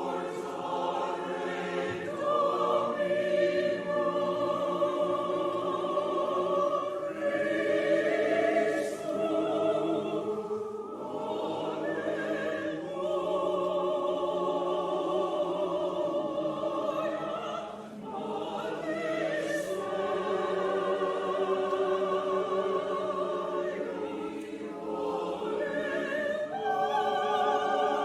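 Choir singing a slow choral piece in long, sustained chords with vibrato, the phrases briefly easing off twice.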